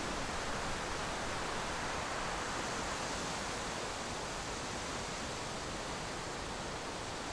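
Steady rushing wind and road noise from a moving vehicle, an even hiss with no change in level.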